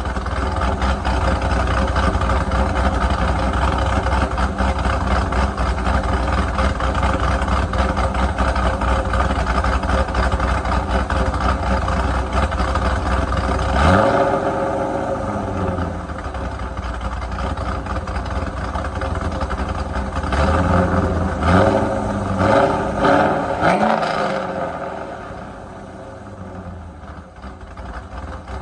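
Exhaust of a cammed C5 Corvette Z06's LS6 V8 with headers and Borla ATAK mufflers, idling steadily, revved once about halfway through, then blipped four times in quick succession before settling back to a quieter idle near the end.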